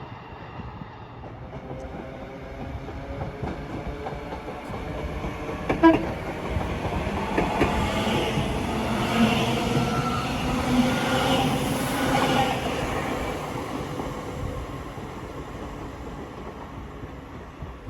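A train passing through a station: its rumble and wheel noise build to a peak about halfway through, then fade away. A sharp click about six seconds in.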